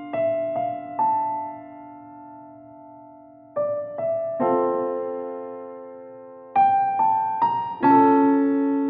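Slow, gentle background music on piano or electric piano: single notes and chords struck a few seconds apart, each left ringing and fading away.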